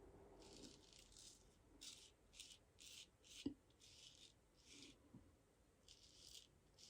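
Straight razor scraping through lathered stubble in a series of about eight short, faint strokes, with a light tap about halfway through.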